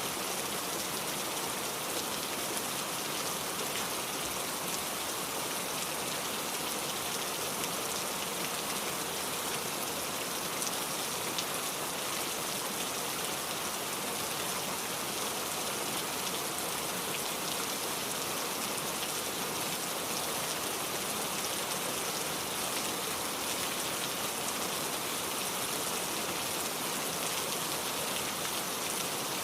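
Steady rain falling, an even hiss with fine drop ticks and no thunder or animal calls.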